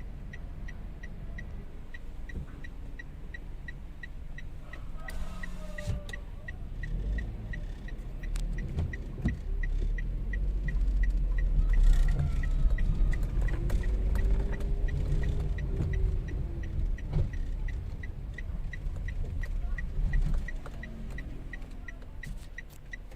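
Toyota Wigo's three-cylinder engine and road rumble heard from inside the car on a test drive while it has a cylinder misfire, the rumble swelling as the car gets moving. A steady, quick ticking, a few ticks a second, runs under it.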